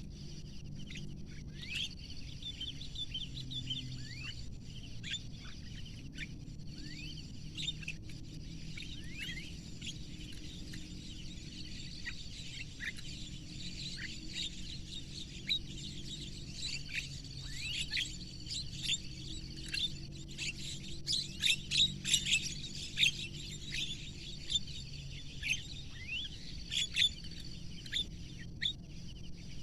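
Many birds chirping and calling in quick short notes, growing denser and louder about two-thirds of the way through, over a faint steady low hum.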